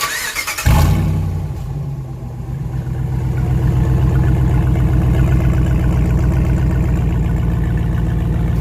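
Pickup truck engine cranking for a moment, catching under a second in, then idling loudly and steadily through an open exhaust cutout that dumps the exhaust ahead of the muffler.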